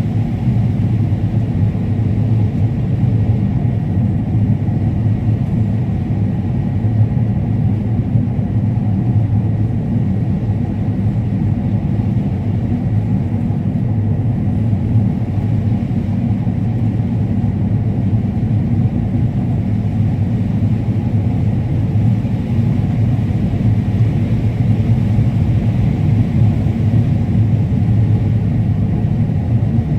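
Combine harvester running steadily while cutting corn: a constant low drone of engine and machinery.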